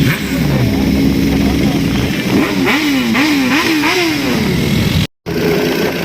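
Superbike engines running. At the start one engine's pitch falls away. About two seconds in, a bike is revved in four or five quick blips that rise and fall. The sound cuts out for a moment near the end, then the engines carry on steadily.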